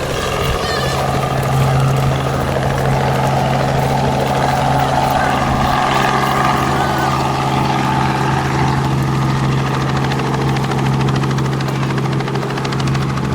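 Helicopter flying, its rotor and engine noise running steadily.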